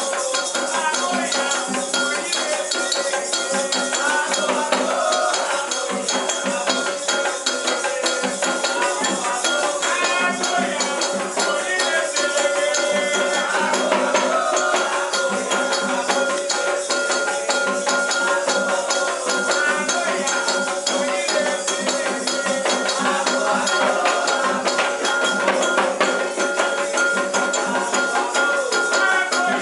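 Candomblé ritual music: rattles shaken in a steady, dense rhythm with other percussion, while voices sing chant over it.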